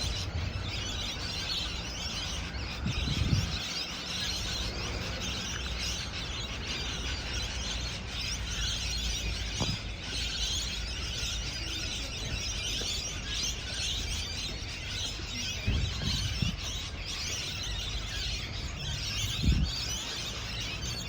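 A group of parrots chirping and chattering continuously in many quick high calls over a low rumble, with a few short dull thumps about three seconds in, near sixteen seconds and near the end.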